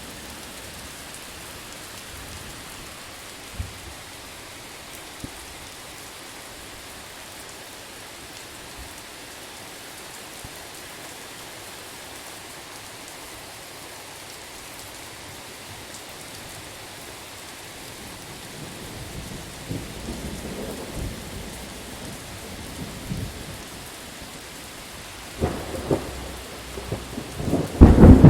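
Steady rain falling. Thunder rumbles in about two-thirds of the way through and builds to a loud thunderclap at the very end.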